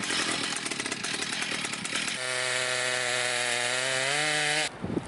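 Power saw cutting through a wooden board: about two seconds of rasping cut, then the motor runs on with a steady hum that rises slightly in pitch, and it stops abruptly near the end.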